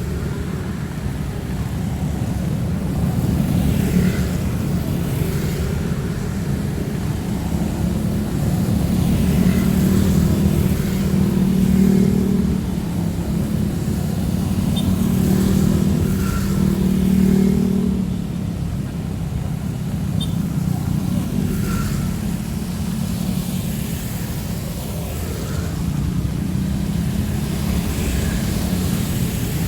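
Road traffic in heavy rain: cars and motorcycles running past on a wet street, their engine hum swelling and fading twice near the middle, over the steady hiss of rain.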